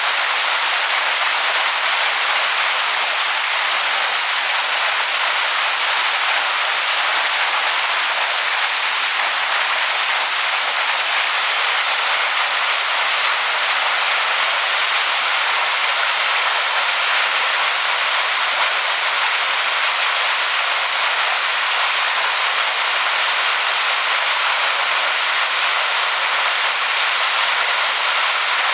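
Waterfall rushing over rocks: a steady, even hiss of falling water.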